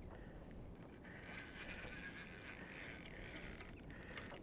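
Faint, steady water and hull noise around a kayak.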